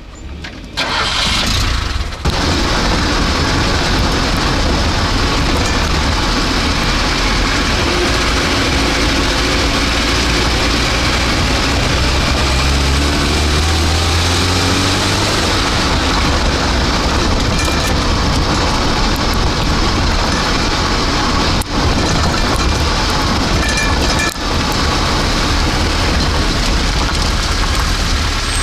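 Car engine starting about a second in, then running loud and steady, its pitch rising briefly around the middle.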